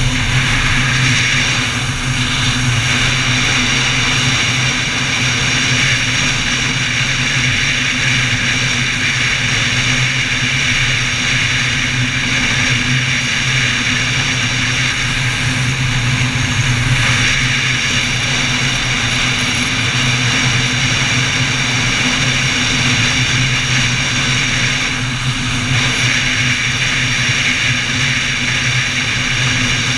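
Honda XL600V Transalp's V-twin engine running at a steady cruise, mixed with steady wind rush over the bike-mounted camera.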